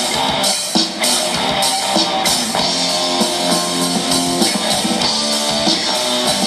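Live rock band playing an instrumental break between vocal lines: guitar over a steady drum kit beat.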